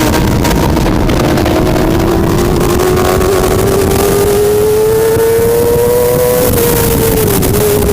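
Racing motorcycle engine held at high revs, its pitch climbing slowly for several seconds as it pulls and then dipping near the end as the throttle eases. Heavy wind noise runs underneath.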